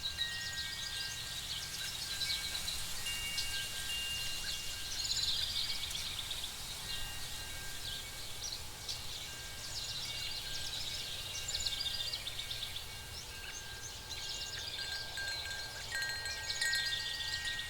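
Designed fantasy night-forest ambience: wind chimes ringing in long held tones over a steady low drone, with recurring bursts of high chirping calls from night creatures.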